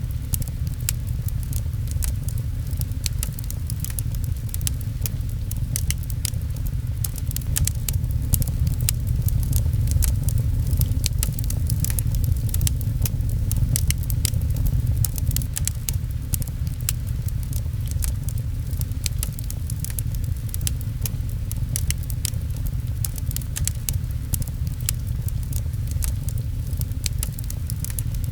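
Wood fire crackling, with many quick, irregular pops over a steady low rumble, mixed with rain pattering.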